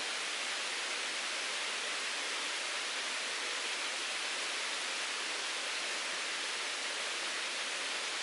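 Mountain stream flowing over rocks, a steady rushing hiss of water at an even level.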